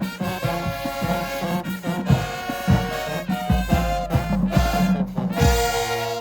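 High school marching band playing: brass horns in loud, full chords over regular bass drum hits and percussion. The music cuts off suddenly at the end.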